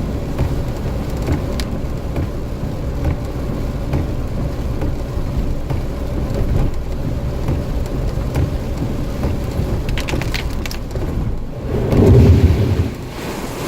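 Heavy thunderstorm rain, a steady dense hiss with a low rumble under it, and a short, louder low rumble about twelve seconds in.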